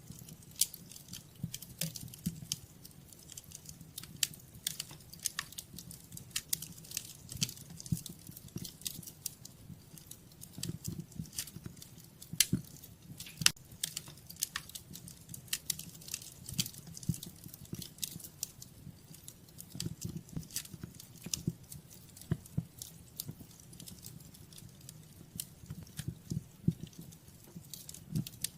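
Wood fire in a fireplace crackling: frequent irregular sharp pops and snaps over a low steady rumble.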